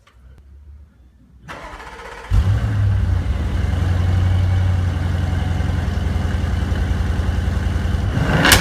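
A 2016 Audi RS7 Performance's twin-turbo V8 with sports exhaust being started: a short crank, then it catches loudly about two seconds in and settles into a steady idle. A sharp rev blip comes right at the end.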